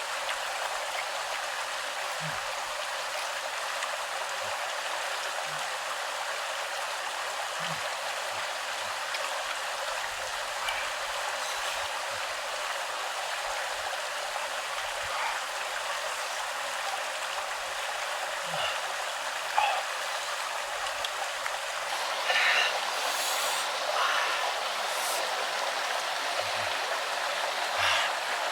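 Steady rush of a flowing stream, with a few brief knocks and clicks in the second half.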